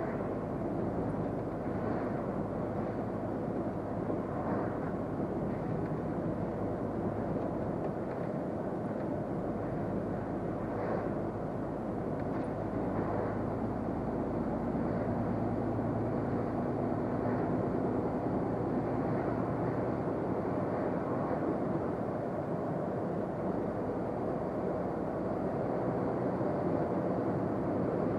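Truck on the move, its engine and road noise heard as a steady rumble from inside the cab, with a faint engine hum standing out for a few seconds around the middle.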